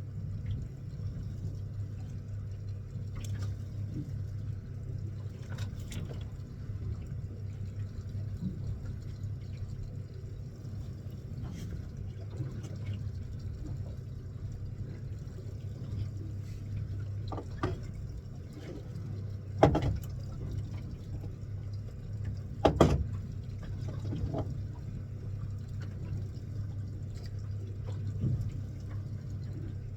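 Steady low hum of a fishing boat's engine, with water sloshing against the hull. Sharp knocks come now and then; the loudest two are about 20 and 23 seconds in.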